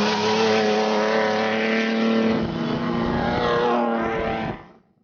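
Honda Ridgeline Baja race truck's engine running at high, steady revs over rushing tyre and road noise, with the pitch shifting briefly near the end before the sound drops away suddenly.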